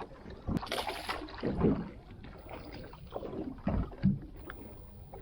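Irregular knocks and thumps aboard a small fishing boat at sea, over a steady wash of noise; the sharpest come about half a second to a second in and again about four seconds in.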